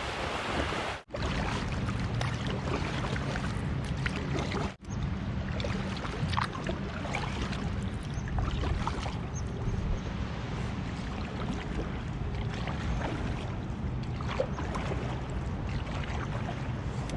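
A kayak on open water: steady water noise and low wind rumble with small splashes and knocks throughout. The sound briefly cuts out twice, near the start and about five seconds in.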